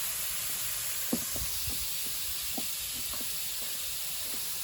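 Pork belly sizzling on an iron griddle over a wood fire: a steady frying hiss with a few small pops.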